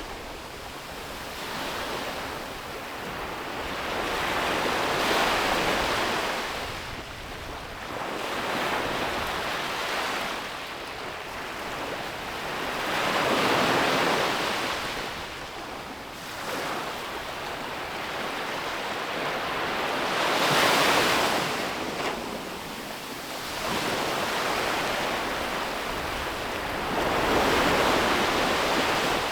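Ocean waves breaking and washing up a beach, the surf swelling and falling in a surge every few seconds, with some wind on the microphone.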